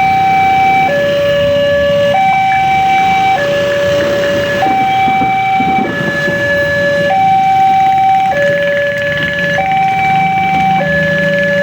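Railway level-crossing warning alarm: an electronic two-tone signal alternating high and low, each tone held a little over a second. It signals that a train is approaching and the crossing is closing.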